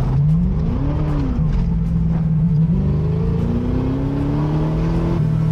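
Car engine under hard acceleration, its pitch rising and falling about a second in, holding steady, then climbing steadily again through the second half.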